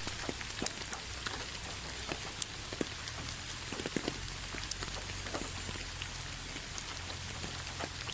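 Steady rain falling, with a continuous hiss and many separate drops ticking and pattering irregularly on a surface, over a low steady rumble.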